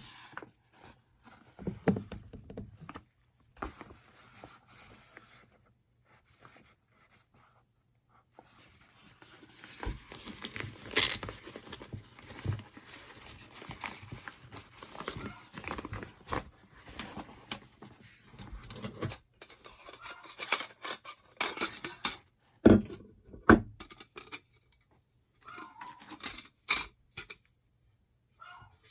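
Hard objects being handled: irregular clinks, scrapes and rustling, with a few sharp knocks and a quiet stretch between.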